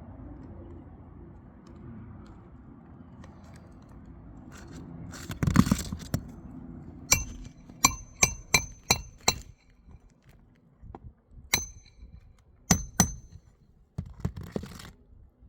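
A metal hand tool striking metal, each hit leaving a short high ring: a quick run of about six blows, then three more, after a rustling scrape. This fits nails being driven or worked loose during a shingle repair.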